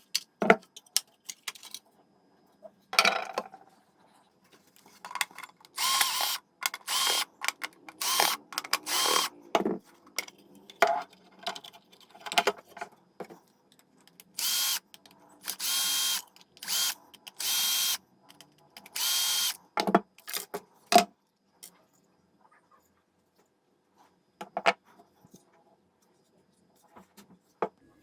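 Handheld power drill or driver running in about ten short bursts of under a second each, with sharp clicks and knocks between them.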